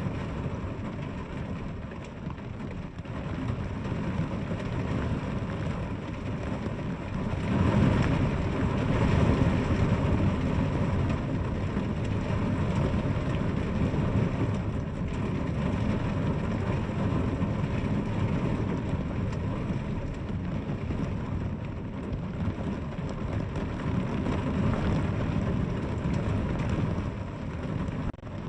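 Heavy rain falling steadily, with a deep rumbling undertone; it swells louder about eight seconds in, then settles again.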